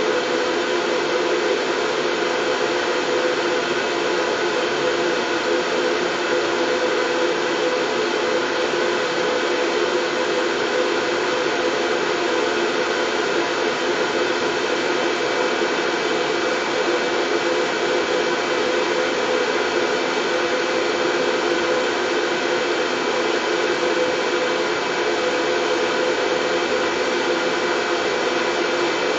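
Steady white noise: an unbroken, even hiss with a faint steady hum in it, like an appliance motor and fan running.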